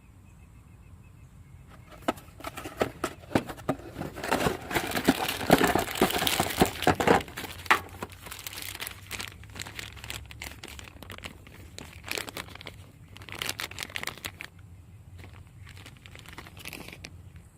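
Packaging crinkling and rustling as it is handled and torn open to get at a new power steering pump seal. It starts about two seconds in, is loudest for a few seconds after that, then goes on more lightly until near the end.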